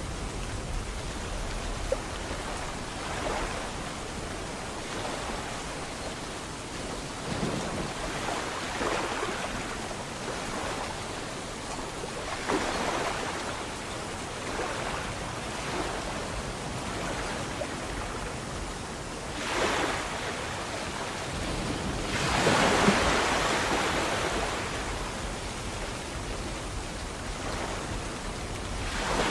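Sea waves breaking and washing in, a continuous hiss of surf that swells again and again; the biggest surges come about twenty seconds in and again a few seconds later.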